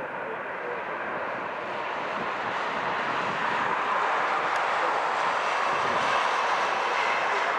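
Jet airliner engines rushing as an aircraft moves past, growing louder over the first few seconds and then holding steady.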